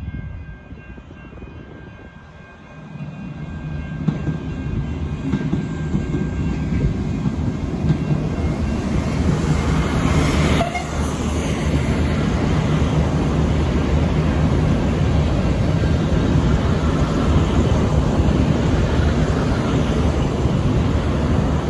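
V/Line VLocity diesel railcar set passing close by: its engines give a steady low drone over the rumble of wheels on the rails. The sound builds over the first few seconds, then holds loud as the cars go by.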